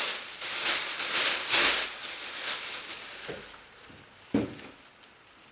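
Rustling of clothes being handled and folded, loud for the first couple of seconds and then fading, with one short knock about four and a half seconds in.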